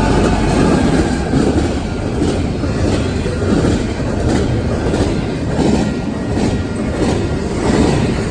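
Union Pacific freight train rolling through a grade crossing: a steady loud rumble of the railcars with a repeated clickety-clack of the wheels over rail joints.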